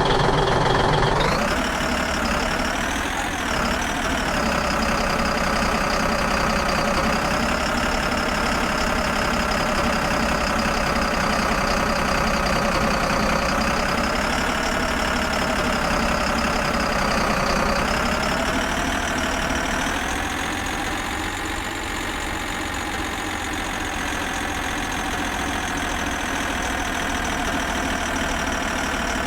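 A motor running steadily, its pitch drifting slowly up and down, with a brief rise about a second in and a dip near the middle.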